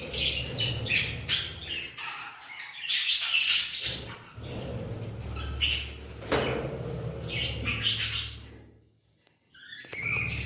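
Pet budgerigars chirping and chattering in a run of short, quick calls over a steady low hum. The calls break off briefly near the end before one more rising call.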